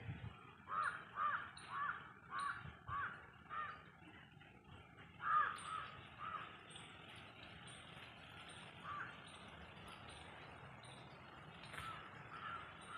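A bird calling over and over: a quick run of about six calls in the first few seconds, then shorter groups of calls later on. A faint high chirp repeats evenly behind them, about once or twice a second.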